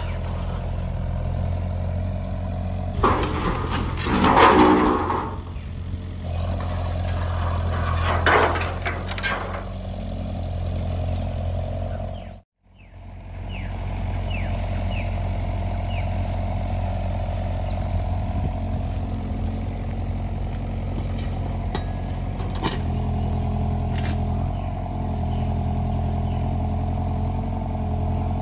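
Engine running steadily, with louder clattering noises twice in the first ten seconds. The sound cuts out briefly about twelve seconds in.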